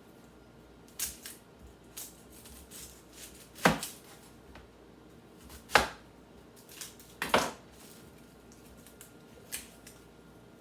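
Kitchen knife knocking on a cutting board while an onion is cut: a handful of sharp, irregular knocks one to two seconds apart.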